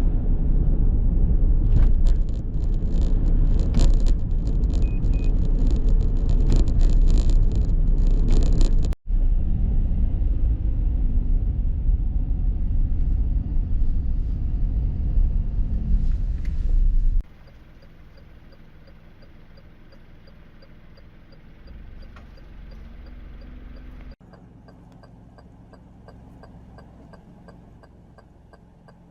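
Strong wind buffeting the camera microphone as a loud low rumble, with crackling knocks in the first few seconds. It breaks off abruptly twice and then falls to a much quieter, faint hiss.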